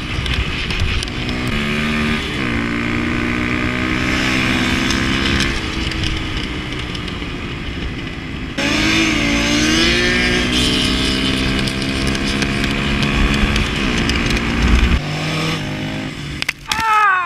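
Motorcycle engine running while riding, with wind rushing over the microphone; the engine pitch climbs and drops several times with the throttle.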